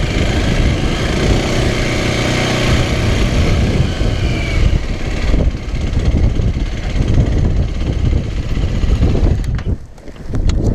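A small motorcycle engine running, steady for the first few seconds, then a rougher, noisier rumble. Near the end the sound drops briefly and a few sharp knocks follow.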